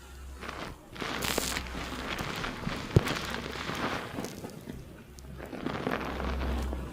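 Hands working wet, lathered hair during a salon shampoo: crackling, fizzy scrubbing that swells and eases in uneven strokes, with scattered clicks and one sharp tick about three seconds in.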